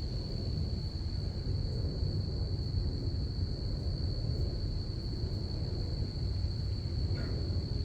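Crickets chirping in one unbroken high trill over a steady low rumble.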